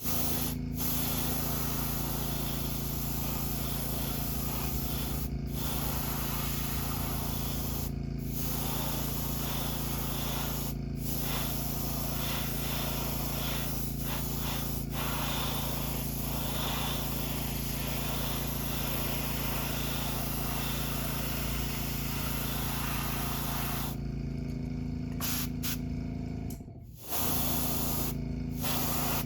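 Airbrush spraying paint in a steady hiss as the crankbait's bottom is lightly dusted, with a steady hum underneath. The spray breaks off briefly a few times, and stops for a few seconds near the end while the hum continues.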